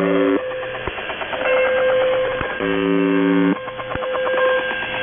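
Shortwave radio reception of UVB-76's buzz tone, sounding about a second at a time: one buzz ends just after the start and another sounds about two and a half seconds in. Between and under the buzzes a pirate transmission plays a jumble of warbling tones, a steady whistle and a few sharp clicks.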